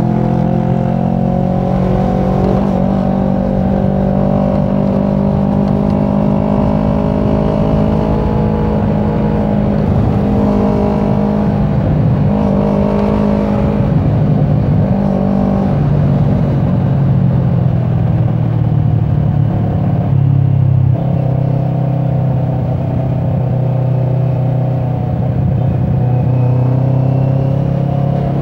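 Motorcycle engine running under way in traffic, heard from the rider's seat. Its pitch rises and falls with throttle changes, over a steady low rumble.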